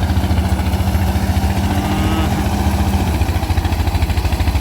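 Small engine of a rice threshing machine running steadily under load, with a fast low throbbing beat and a steady hum that drops out about three seconds in.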